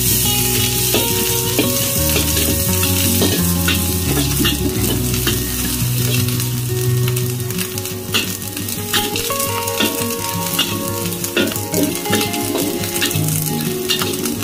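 Finely chopped food sizzling in hot oil in a steel wok, with a metal spatula scraping and knocking against the wok as it is stirred.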